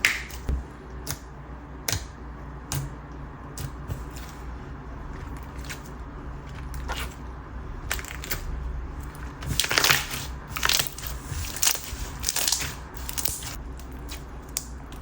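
Coated clear slime with bingsu beads being squeezed and worked by hand, giving irregular crisp crackling and popping clicks from the beads, busiest about two-thirds of the way through.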